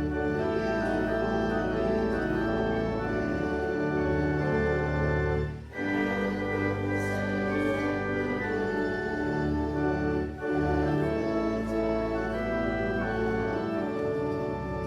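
Church organ playing a hymn in sustained chords, with short breaks between phrases about six and ten seconds in.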